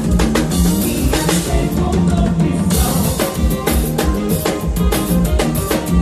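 Drum kit played in a fast, busy groove with bass drum and snare strikes, over band music with pitched instruments.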